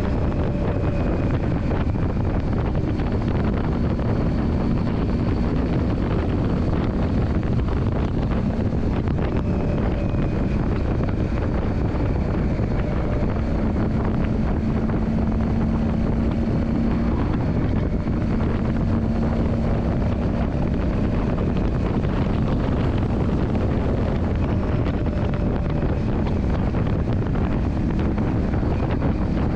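Yamaha Drag Star 400's V-twin engine running steadily at an even speed, with heavy wind buffeting the microphone.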